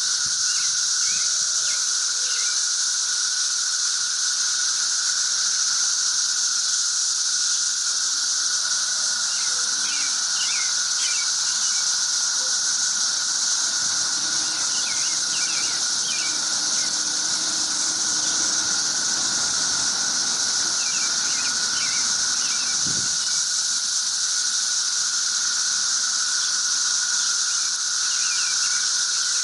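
Cicada chorus: a steady, high-pitched, unbroken drone with a lower steady hum beneath it, and scattered short chirps over the top.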